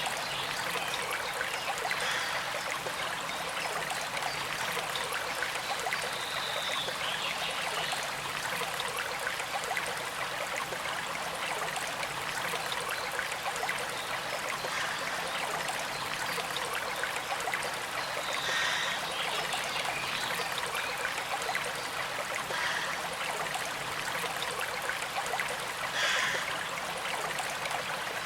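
Small creek flowing in a steady trickling rush, with a few brief brighter gurgles now and then.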